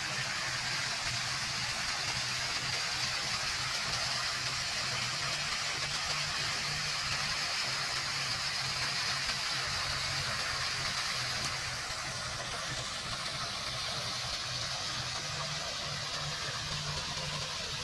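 Water falling down an indoor wall fountain: a steady rush of splashing water, with a low steady hum beneath it. The water sound eases a little about twelve seconds in.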